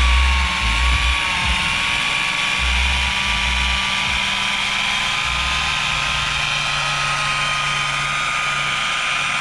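Handheld electric polisher running with a steady high whine, its pitch wavering slightly in the first second or so and then holding steady. Low bumps of handling noise come and go in the first five seconds.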